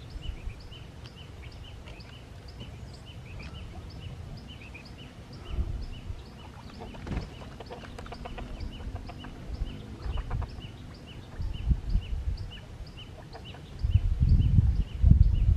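A small bird calling with a steady series of short, high chirps, about three a second. Low rumbling wind or handling noise comes and goes underneath and is loudest near the end.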